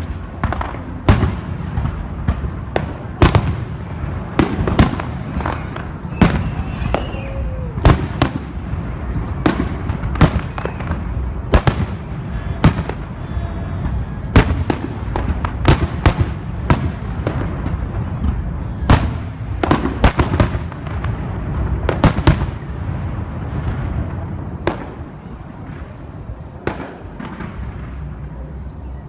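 Fireworks going off in a display: a dense run of sharp bangs and cracks, one or two a second, over a steady low rumble, thinning out about three-quarters of the way through.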